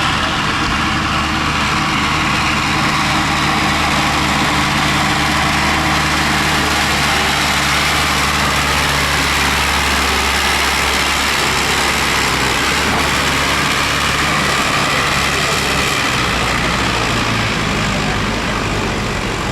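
Tractor engine running steadily, its low engine note shifting in pitch about halfway through and again near the end.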